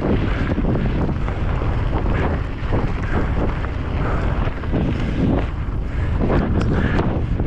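Wind buffeting the camera microphone of a mountain bike at speed on a race descent, with rumbling tyre and trail noise underneath and a few short knocks.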